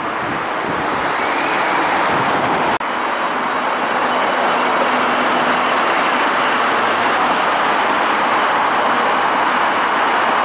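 Kita-Osaka Kyuko 9000 series electric train pulling out of the station, a steady rushing of wheels and running gear mixed with road traffic alongside. The sound cuts out for an instant nearly three seconds in.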